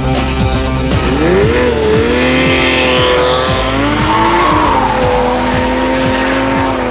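Sports car engine breathing through an Akrapovič aftermarket exhaust under acceleration: the engine note rises about a second in and then holds fairly steady. Background music with a steady beat plays underneath.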